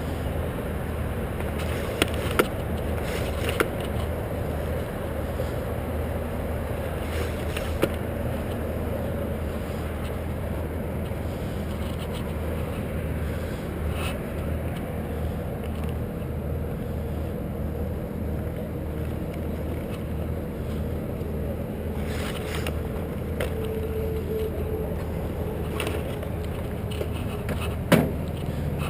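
Steady low engine hum running throughout, with a few sharp knocks, two of them close together a couple of seconds in and one near the end.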